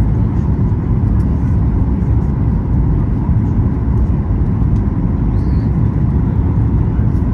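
Steady low rumble of a Boeing 737 MAX 8 heard inside the economy cabin, from its engines and the air rushing past the fuselage, with a faint steady hum on top.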